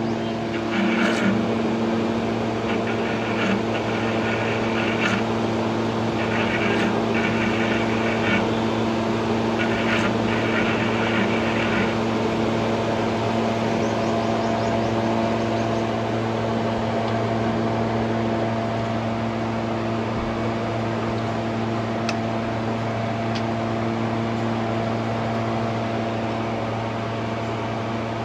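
A steady mechanical hum with several even tones, with patches of hissing in the first twelve seconds.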